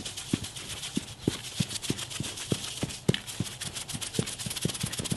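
A half-pound jar of Tannerite-type binary exploding-target mix being shaken by hand to mix the powders: the contents knock inside the container about three times a second, over a steady grainy hiss.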